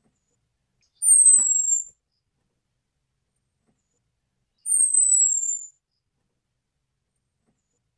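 Orange-headed thrush giving two thin, very high whistled calls a few seconds apart, each about a second long and falling slightly in pitch.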